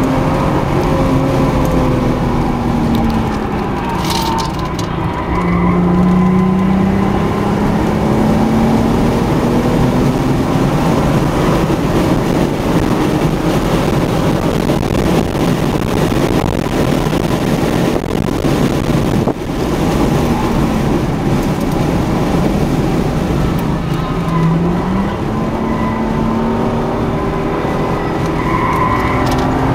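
Car engine and road noise heard from inside the cabin while driving at speed, the engine note dropping a few seconds in and climbing again near the end as the car slows and accelerates.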